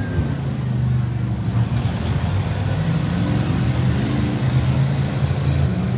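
V8 engines of demolition derby stock cars running, with pitch rising slightly about three seconds in as they are revved.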